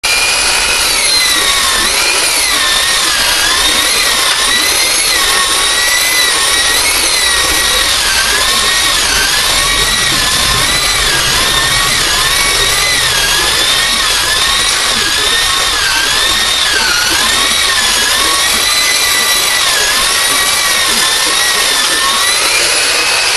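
Electric power sander running steadily on a wooden deck, its motor whine wavering up and down in pitch as it is worked across the surface.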